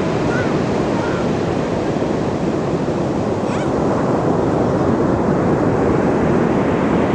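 Ocean surf washing steadily onto the shore, a continuous dense rush with no breaks, with a few faint short chirps above it.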